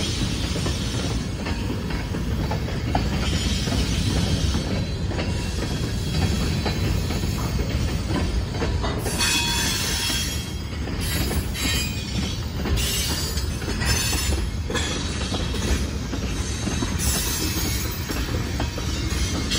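Freight train tank cars and covered hoppers rolling past close by: a steady low rumble of steel wheels on rail, with bouts of high-pitched wheel squeal through the middle of the passage.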